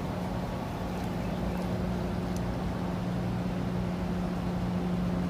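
A steady low mechanical hum over a rumble, like a distant engine, with a few faint sharp ticks in the first half.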